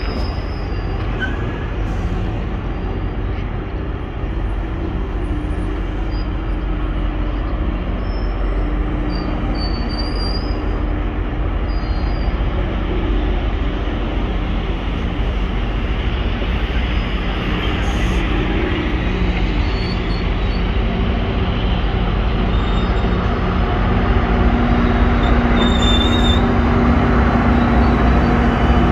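GO Transit commuter train of bilevel coaches rolling past on steel wheels. Over the last few seconds the diesel locomotive's engine comes alongside and grows louder.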